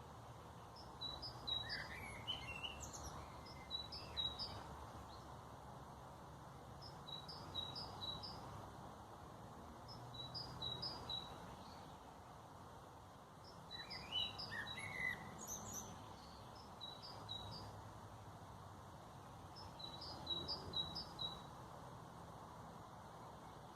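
Wild birds singing: one bird repeats a short phrase of three to five high chirps every three to four seconds, and another gives a brief run of lower, sliding notes twice. Under them is a steady low background rumble.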